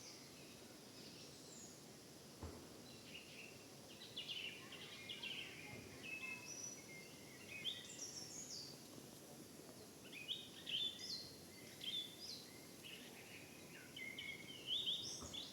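Several small songbirds chirping and trilling in short, quick phrases, with no single species leading, over a faint, even background hiss of summer forest ambience.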